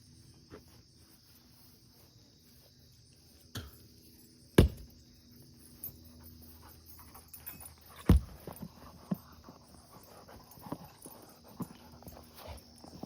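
Splitting maul striking firewood: two loud, sharp whacks about four and a half and eight seconds in, with a lighter knock just before the first and scattered smaller knocks and clatter afterward.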